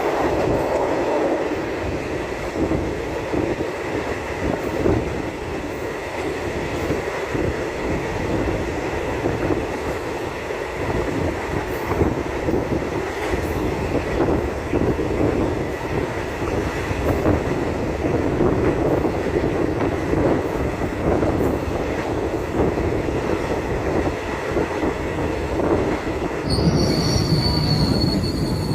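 Passenger train running along the track with a steady rumble and rattle. Near the end a high, steady wheel squeal comes in.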